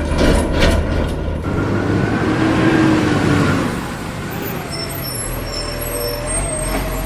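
Heavy vehicle engine running with a low steady hum, with several knocks in the first second and a half and a slow whining tone in the middle.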